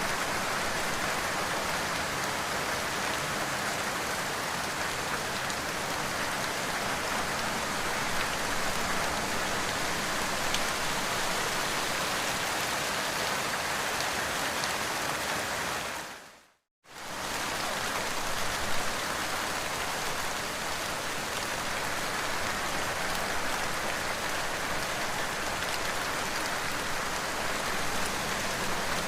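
Steady rain falling, a dense even patter of raindrops. About halfway through it fades out to silence for under a second and comes straight back, like a splice in a looped recording.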